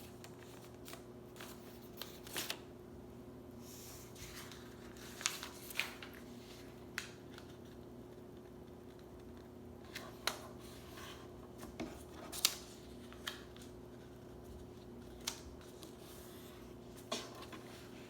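A sheet of paper being handled and folded, with short, sharp crackles and creasing clicks every second or so, some in quick pairs, over a faint steady hum.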